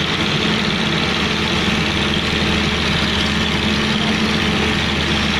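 A large engine running steadily at idle, a constant low drone that does not change.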